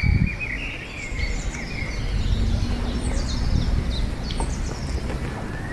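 Small birds chirping and twittering in short repeated calls, over a steady low rumble.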